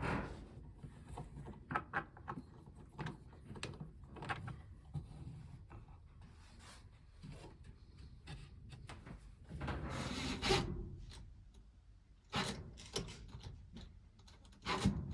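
Wooden parts being handled and worked: faint, irregular light knocks and clicks, with a longer scraping rub about ten seconds in and another beginning about twelve seconds in.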